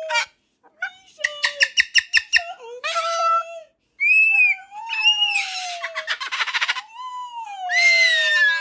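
A pet parrot calling in a string of squawks and chattering notes. A fast run of pulsed notes comes about a second in, harsh screeches follow in the middle, and a long falling call comes near the end.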